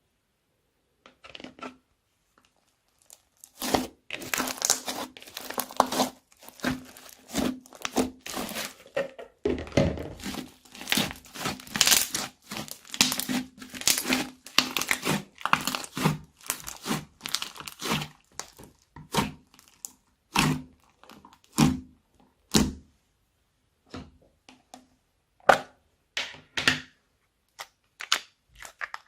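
Slime being squished, stretched and pulled apart by hand, with crackling, tearing and popping. Dense at first, it thins later on to single pops about a second apart.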